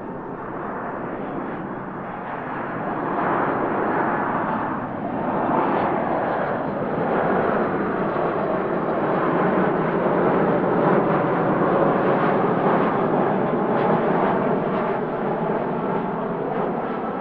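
Jet airliner's engines passing close by, a steady rushing noise that builds over the first few seconds, stays loud and eases slightly near the end.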